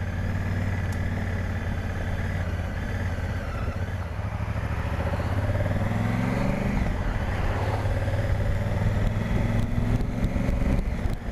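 Honda Africa Twin motorcycle's parallel-twin engine running under way, rising in pitch about six seconds in, then holding steady.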